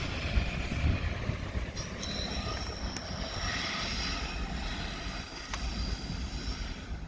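Diesel locomotive engines running, a steady low drone with a faint high whine above it.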